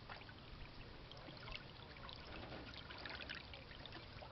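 Water trickling and dripping in small scattered splashes, faint and steady, as on a river around a canoe.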